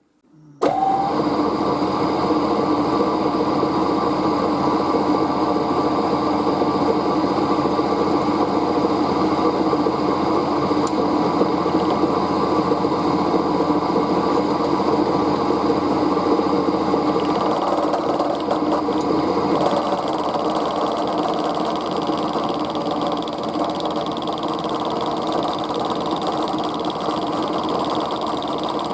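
Metalworking machine tool running steadily, machining a cold-rolled steel bar; it starts suddenly just after the beginning, and its tone shifts slightly about two-thirds of the way through.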